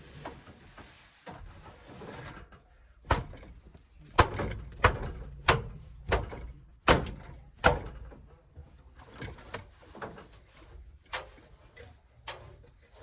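A series of sharp knocks and clunks, hard objects being handled or set down, about seven loud ones in quick succession and then several lighter ones. A faint hiss comes before them and stops about two seconds in.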